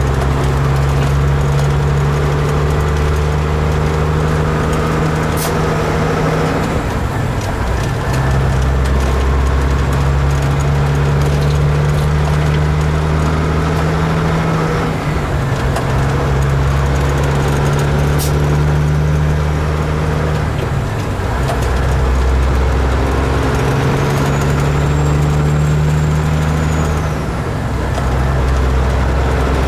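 Kenworth truck's diesel engine running with a steady low note that breaks up briefly four times.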